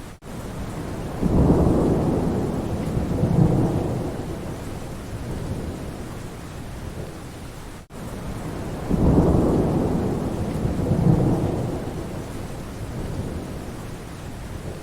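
Steady rain with a low rumble of thunder twice, starting about a second in and again about nine seconds in, each lasting a few seconds. The sound cuts out for an instant near the start and again about eight seconds in, where the recording loops.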